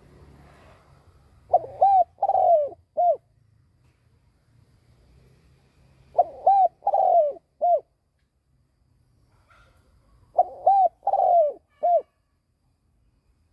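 Spotted dove cooing, three repeated phrases of four notes each (two short, one longer, one short), about four seconds apart. It is the call of a trained decoy male used to provoke and lure wild doves.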